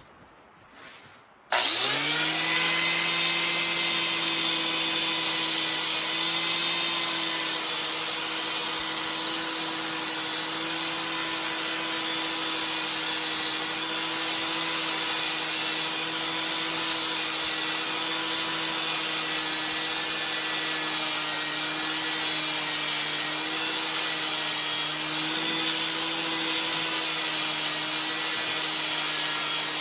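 A handheld power tool starts about a second and a half in and runs steadily at a constant speed, with a rasping scrub as it cleans rust off a motorcycle wheel rim.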